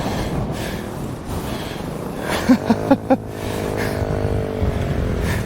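Wind buffeting the microphone, then a small dirt bike engine revving in three or four quick throttle blips about halfway through and running on steadily, its pitch easing down slightly.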